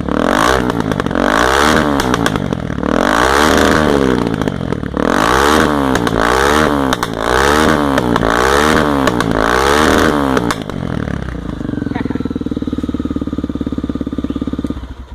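Honda XR 250 Tornado's single-cylinder four-stroke engine with a new aftermarket exhaust, revved in a string of quick throttle blips, then settling to a steady idle.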